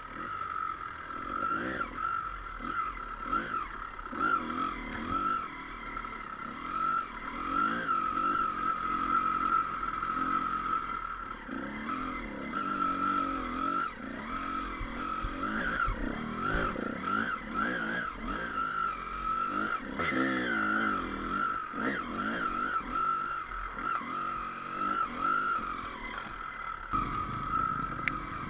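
Dirt bike engine revving up and down repeatedly while riding a trail, over a steady high whine.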